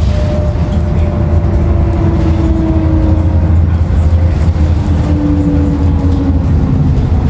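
Inside a 2016 Nova Bus LFS on the move: a steady low rumble from its Cummins ISL9 diesel and drivetrain under road noise, with a thin whine that slowly falls in pitch.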